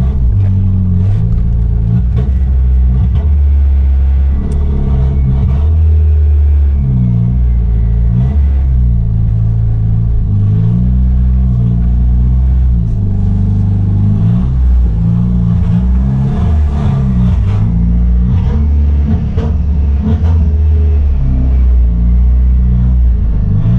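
Chrysler Conquest's turbocharged G54B four-cylinder engine running while the car is driven, its note rising and falling repeatedly as throttle comes on and off. The engine stumbles when given fuel, which the driver takes for flooding out.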